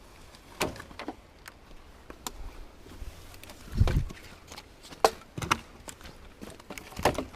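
Scattered knocks and thuds of dry wood being handled and loaded, about half a dozen, with a heavier low thud about four seconds in and another near the end.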